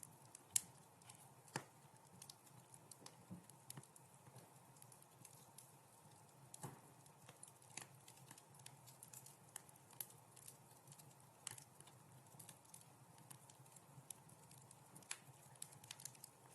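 Wood fire crackling in a fireplace: irregular sharp pops and snaps, the loudest about half a second in, over a faint steady low hum.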